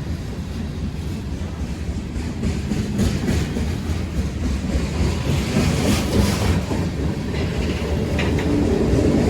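Freight train rolling past, loud, with a steady rumble and its wheels clacking over the rail joints.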